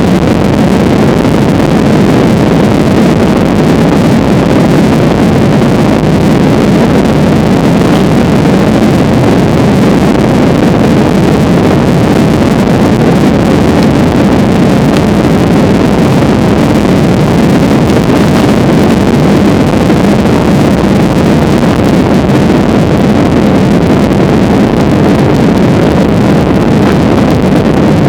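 Steady, loud cabin noise of a passenger plane in flight: engine and rushing-air noise heard from inside the cabin, holding even throughout.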